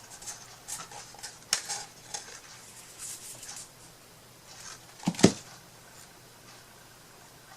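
Light clicks and rustles of hands handling small craft pieces on a tabletop, with one sharp knock about five seconds in.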